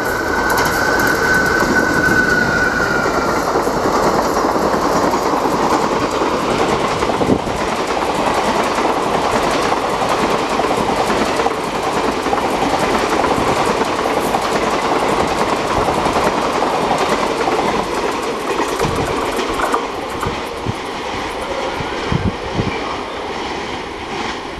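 Passenger train hauled by a WCAM3 electric locomotive running past close by, its long rake of coaches rumbling and clattering over the rail joints. A high thin tone sounds over the first few seconds, sinking slightly. The noise eases off near the end as the last coach moves away.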